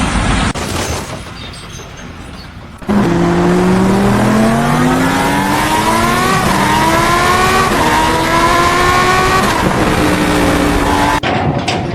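A motor vehicle engine accelerating hard, its pitch climbing and dropping back twice as it shifts up through the gears.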